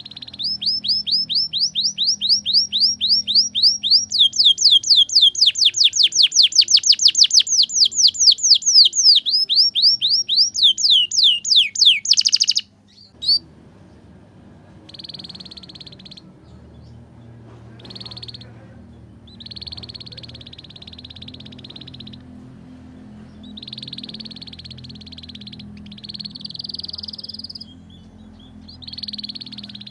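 Canary song: a fast run of repeated sweeping high notes, several a second, that stops abruptly about twelve seconds in. It is followed by quieter, separate bursts of buzzy rolling trill a second or two long.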